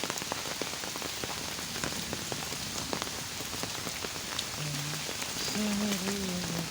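Heavy rain falling steadily, with many drops striking close by as quick, irregular ticks.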